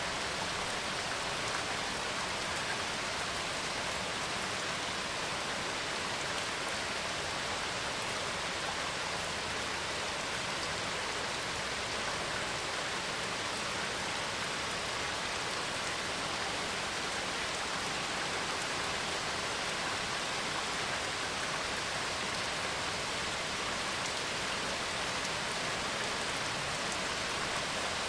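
Steady rain sound, an even hiss of falling rain with no thunder or changes.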